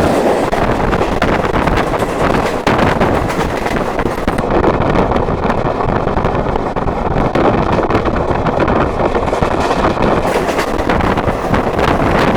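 A moving train's running noise heard from its window: a loud, steady rumble and rush. For several seconds in the middle the hiss softens and faint steady whines sit under it.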